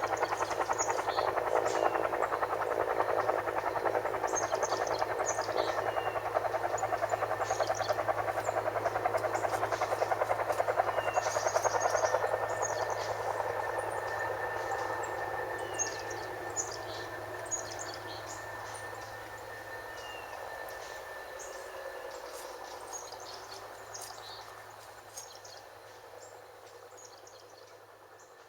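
Helicopter flying past, its rotor giving a fast, steady pulsing that holds for about the first twelve seconds and then fades away gradually as it moves off. Short high bird chirps sound on and off over it.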